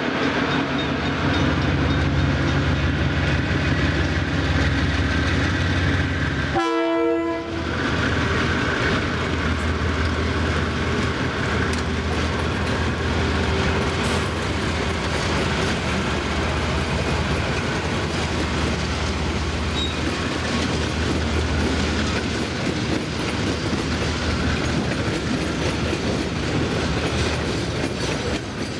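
Diesel freight locomotives hauling a long train past, engines running with a steady low drone, and a short horn blast about seven seconds in. Later the wagons roll by, wheels clicking over the rail joints.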